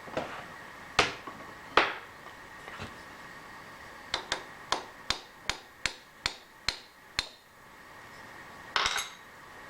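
Metal setup on a milling machine being tapped with a hammer to nudge the loosened workpiece over a little: two harder knocks, then a run of about nine quick light taps, about three a second, and a short cluster of taps near the end.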